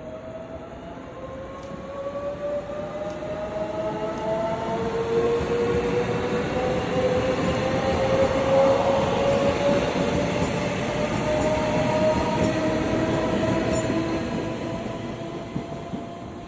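Train moving through a station, its rumble swelling to loudest about halfway through and then fading, with a whine that rises slowly in pitch.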